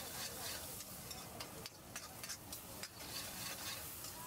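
Chopped onions and tomatoes sizzling steadily in oil in a black wok, while a steel spoon stirs them, scraping and clinking against the pan every second or so.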